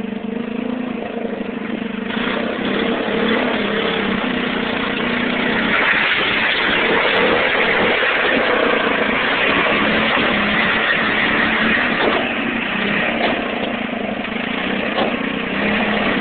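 Small tractor engine running under load while pushing gravel. The note is steady at first, then grows louder and rougher after a few seconds, with a harsh hissing noise over it.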